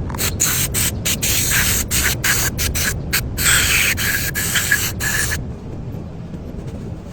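Aerosol spray hissing in a quick series of short bursts that stop about five seconds in, over a steady low rumble.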